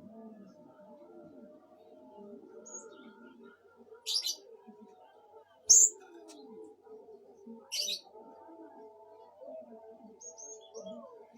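Purple-throated sunbird giving short, sharp, high 'shot' calls, three of them spaced about two seconds apart in the middle of the stretch, the second the loudest. Underneath runs a steady bed of low wavering calls.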